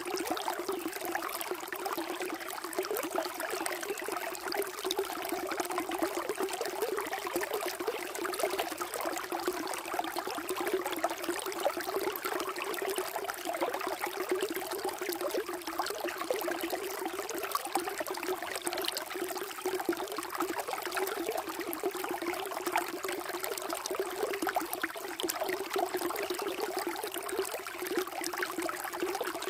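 Water flowing and trickling in a steady, unbroken stream.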